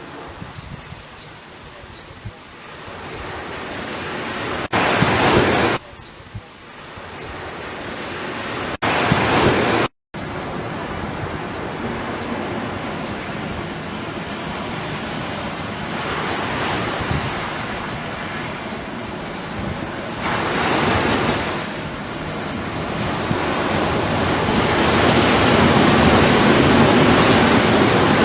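Ocean surf on a beach: waves swelling and washing in every few seconds, loudest near the end. The sound cuts out briefly about ten seconds in.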